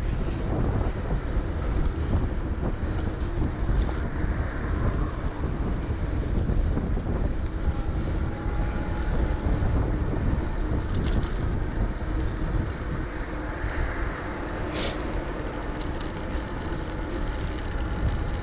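Wind buffeting the microphone of a handlebar or body-mounted action camera on a moving e-bike, a steady low rumble, with a faint steady tone in the background and one brief click about fifteen seconds in.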